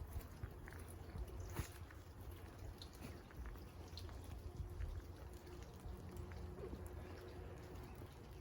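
Quiet rain falling, with many small scattered drop ticks over a low rumble.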